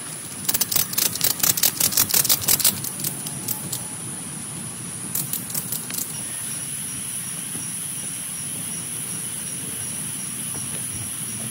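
Heavy rain hissing steadily on a tent, with a quick run of loud sharp taps for about two seconds near the start and a few more around halfway, as large drops strike the tent fabric.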